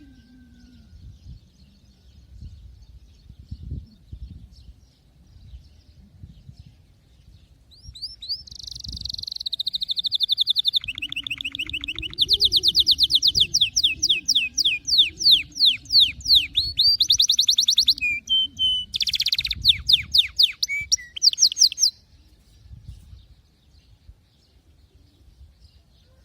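Canary singing: faint chirps at first, then from about eight seconds in a loud song of fast trills that changes pitch several times and breaks off suddenly near the end.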